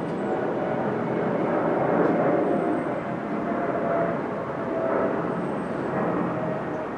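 A train moving at a station platform: a steady rumble with a faint whining tone running through it.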